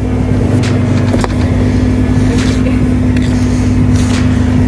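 Supercar engine idling steadily, with a few faint clicks over it.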